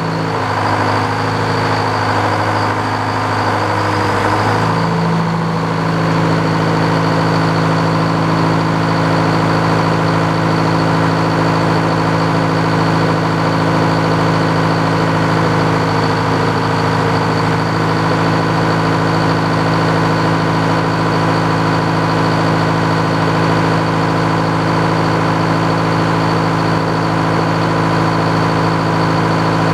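Sawmill's power-unit engine running, brought up in speed about five seconds in, then holding steady at the higher speed.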